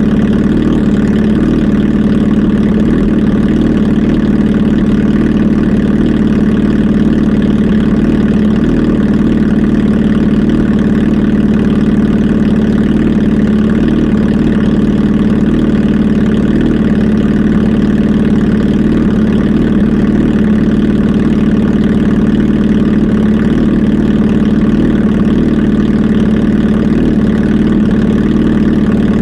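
Kawasaki Z H2 SE's supercharged inline-four engine idling steadily, with no revving.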